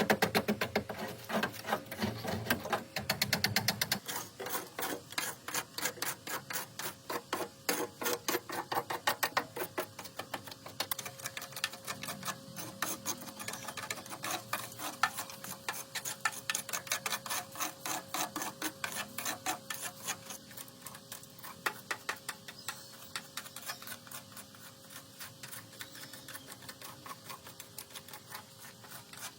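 Hand work on metal: a fast, even run of short scraping or tapping strokes, several a second. A faint steady hum joins about ten seconds in.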